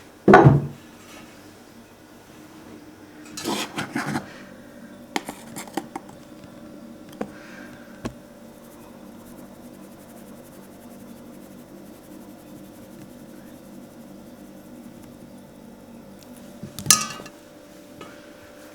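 Kitchen pots, dishes and utensils being handled: a loud clunk at the start, a short clatter about four seconds in, a few light clinks, and another clunk near the end, over a steady low hum.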